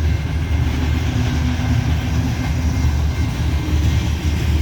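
Loaded coal hopper cars of a freight train rolling slowly past up a grade: a steady, heavy low rumble.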